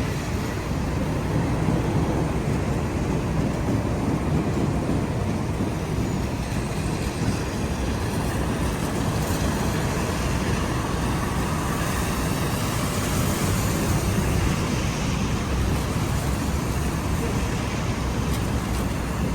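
City street traffic: a steady wash of vehicles passing on wet roads, with the tyre hiss swelling for a couple of seconds about two-thirds of the way through.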